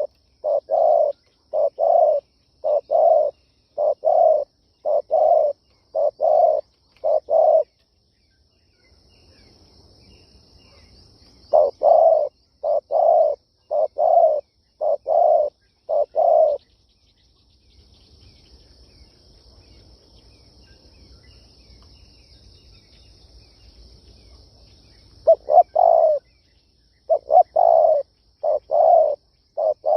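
Spotted dove cooing, the kind of call used to lure wild doves: three runs of short, evenly spaced coos, about two a second, with pauses of several seconds between the runs.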